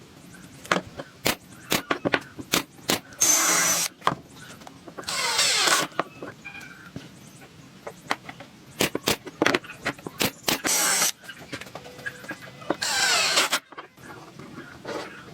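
Woodworking sounds: sharp knocks and taps on wood throughout, with four short bursts of a power tool, each under a second long.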